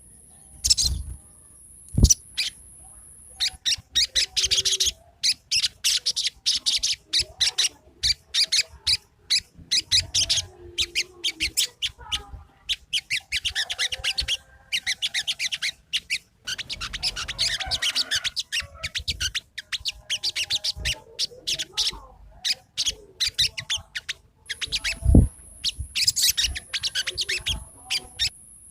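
Sogon, a sunbird, singing in fast runs of short, high twittering chirps that break off and start again, with a few dull thumps. A thin, steady high whistle-like tone sounds for the first few seconds and again near the end.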